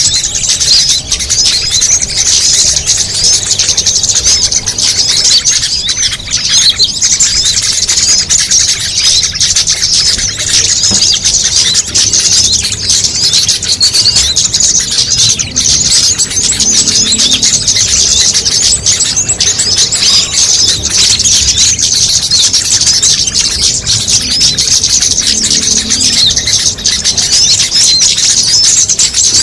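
Dense, continuous high-pitched chirping and trilling from many small songbirds at once: a mixed bird-lure track of small-bird calls, with no break or pause.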